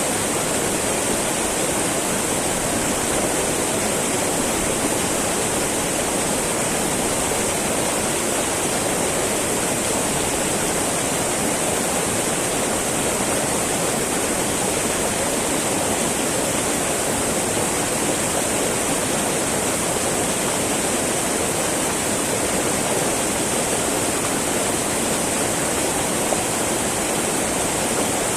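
Small mountain river babbling and rushing steadily over rocks, with a steady high hiss on top.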